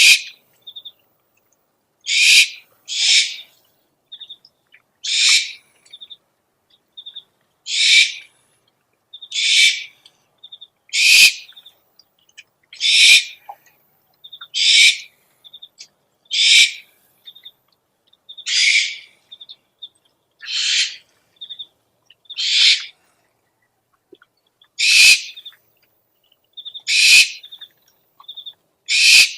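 An owl's harsh, hissing screech calls, repeated about every two seconds and each about half a second long, with faint short chirps in between: a recorded owl lure call.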